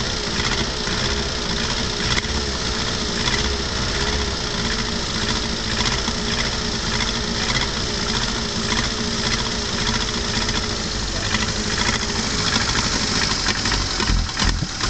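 Porsche 924's four-cylinder engine running unevenly on a hard start, kept alive with throttle: it will only run briefly on its own. The note wavers, and changes about twelve seconds in.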